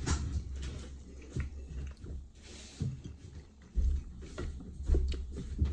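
Someone eating chicken wings close to the microphone: irregular chewing and mouth clicks, with a few louder low bumps about four and five seconds in.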